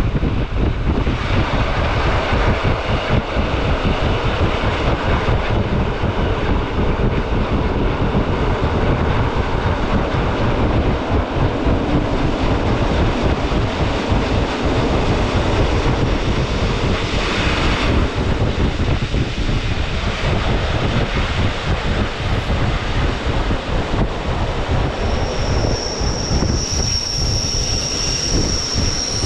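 Rhaetian Railway metre-gauge train running along the track with a steady rolling rumble. A few seconds before the end, a high, steady wheel squeal sets in.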